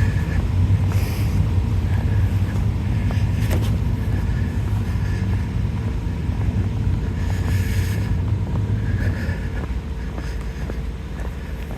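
Fire truck engine running, a low steady rumble that eases off a little near the end.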